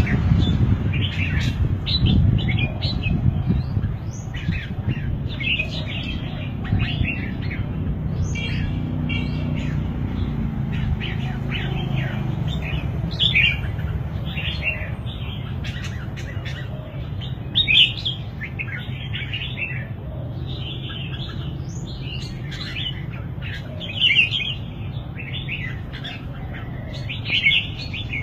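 Red-whiskered bulbul singing: a run of short, quick warbling phrases, with a few louder notes, over a steady low hum.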